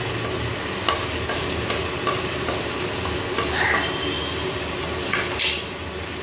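Chopped onion and freshly added ground spices (salt, turmeric, cumin powder) sizzling steadily in hot oil in a wok, with a few light clicks.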